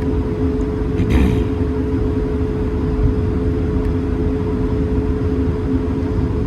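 Cabin noise inside an Airbus A220-300 taxiing: steady low rumble of the Pratt & Whitney PW1500G geared turbofans at taxi power with a constant hum. A brief faint rustle or rattle about a second in.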